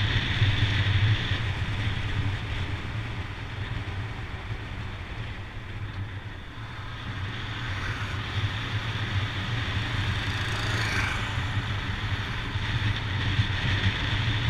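Motorcycle engine running steadily under way, with wind noise over the microphone; it eases off a little about midway, then builds again.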